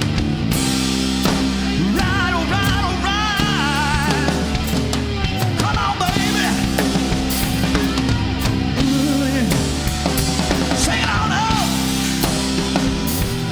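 Hard rock band playing: a drum kit and bass keep a steady beat while a lead line of wavering, gliding notes plays over them.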